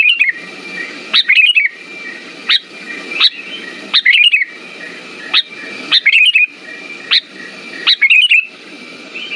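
Sooty-headed bulbul (kutilang) calling: short, bubbling phrases repeated about once a second, each opening with a quick rising note. This is a lure recording meant to prompt a silent bulbul to sing.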